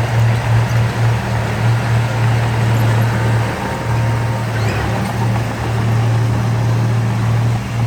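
Heavy diesel engine of an earthmoving machine running steadily under load, a low drone that dips briefly about three and a half seconds in.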